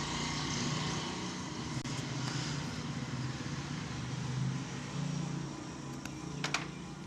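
Steady low background rumble with a hum, the kind a running vehicle or nearby traffic makes, with a few short clicks near the end.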